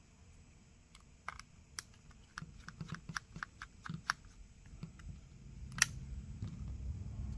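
A quick run of light clicks and taps of small tools on the metal bracket and parts inside an opened Samsung Galaxy Z Flip 5, from about a second in to about four seconds, then one sharper click near six seconds.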